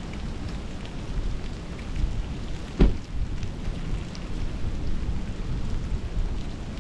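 Strong blizzard wind rumbling and buffeting, a steady dense noise, with one sharp thump about three seconds in.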